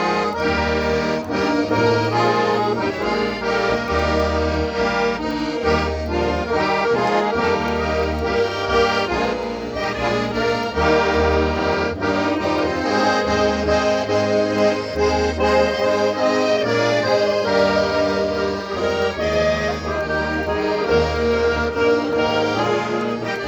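Accordion playing a traditional dance tune, with sustained chords and melody over a low bass line that changes note about once a second.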